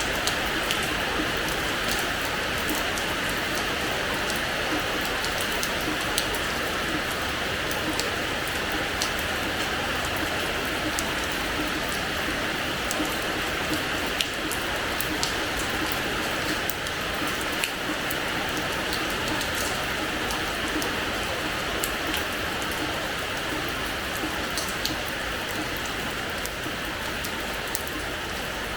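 Steady rain falling on a hard terrace floor, a dense hiss with many close individual drops ticking and splashing throughout.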